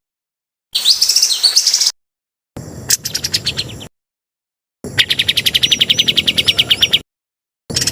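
Songbird masteran recording: short spliced snatches of bird song, with a burst of chirps, then a rapid trill, then a long run of fast repeated notes, each cut off abruptly by dead silence before the next.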